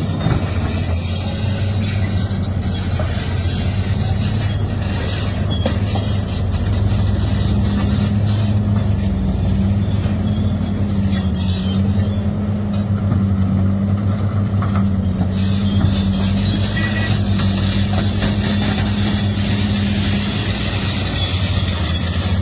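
Heavy construction machine's engine running steadily with an even low hum.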